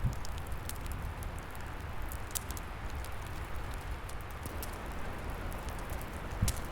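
Wood fire crackling, with irregular sharp pops over a steady rush of flames and wind in the trees. A low thud comes near the start and another near the end.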